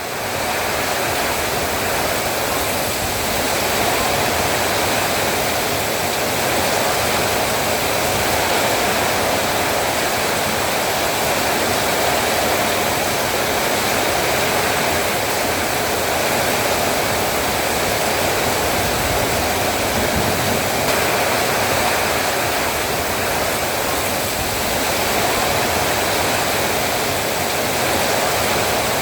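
Heavy rain falling, a loud steady hiss without let-up, fading in at the start.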